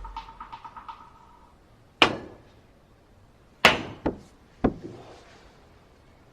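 Billiard balls clacking on a pool table: one sharp strike about two seconds in, then three more in quick succession, as the cue hits the ball and the balls collide. Background music fades out at the start.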